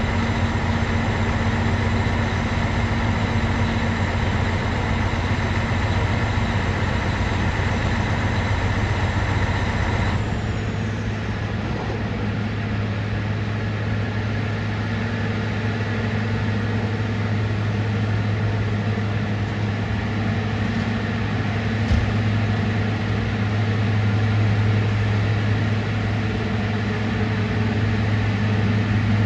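Mount Washington Cog Railway train running: a steady engine drone with a strong low hum. The higher hiss and tones drop away about ten seconds in, and there is a single sharp click about two-thirds of the way through.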